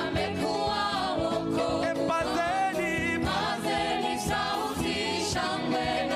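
Music: a choir singing a gospel song, several voices together.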